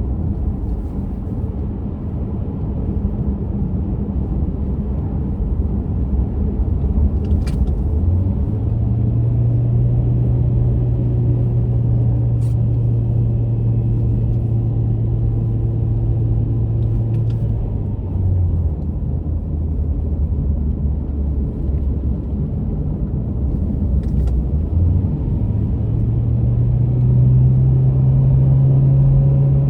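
Car driving at road speed, heard from inside the cabin: a steady low tyre and road rumble, with a low even hum that comes in about eight seconds in, drops away a little past halfway, and returns near the end slightly higher in pitch.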